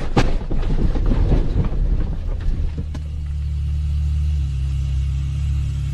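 A car engine running with a low, steady rumble, after several short knocks and clatters in the first two seconds.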